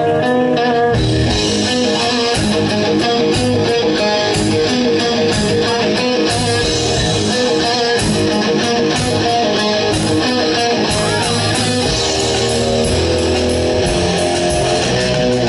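Live rock band playing heavy metal with electric guitar, bass and drums. A guitar plays alone at first, then the full band comes in about a second in and keeps going.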